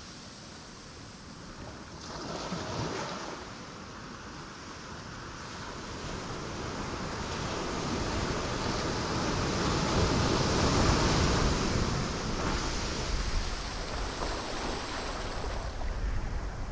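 Ocean waves breaking on rocks as a continuous surf wash. A small wave breaks about two seconds in, then a bigger one builds and crashes about ten seconds in before the wash falls back a little and churns on.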